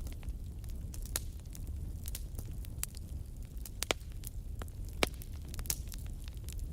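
Wood campfire crackling, with irregular sharp pops and snaps, the loudest two close together about four and five seconds in, over a low steady rumble.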